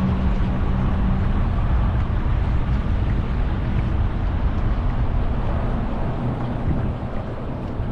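Small motorboat's engine running steadily under way, with wind buffeting the microphone.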